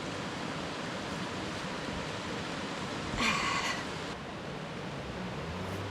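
Steady even hiss of rain falling in the rainforest, with a short high-pitched call about three seconds in.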